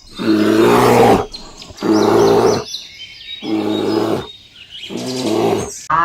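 A large animal giving four loud, deep calls, each about a second long and evenly spaced, with small birds chirping between them.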